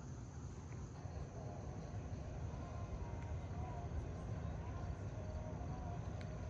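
Quiet outdoor ambience: a steady low rumble with faint, repeated rising-and-falling calls in the distance from about a second and a half in.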